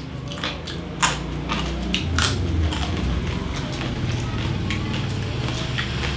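Close-up chewing of crispy roast pig skin (lechon crackling), with several sharp crunches, the loudest about a second in and another about two seconds in.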